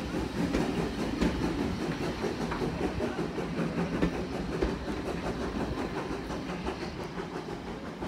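Railway passenger coaches rolling slowly past, a steady rumble with wheels clicking over the rail joints, fading away as the last coach goes by.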